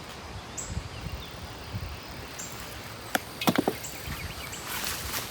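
Quiet outdoor ambience with a few sharp clicks, one about three seconds in and a quick cluster just after, then a brief rustle near the end.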